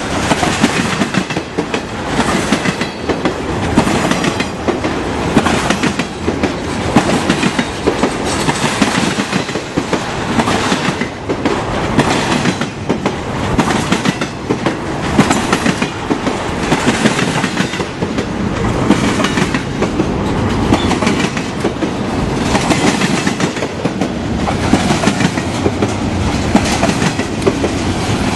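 Railroad cars of a train rolling past close by, their wheels clattering over the rail joints in a loud, steady, repeating clickety-clack.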